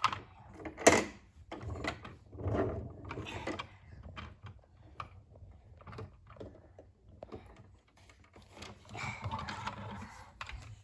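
Plastic toy parts clicking and rattling as the toys are handled, with a sharp click about a second in.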